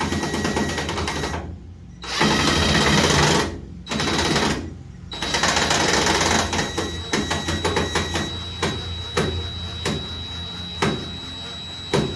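A handheld power driver rattles in several bursts, pausing between them, as it runs fasteners in for a tail-light housing. It is followed by a series of separate sharp clicks about half a second apart.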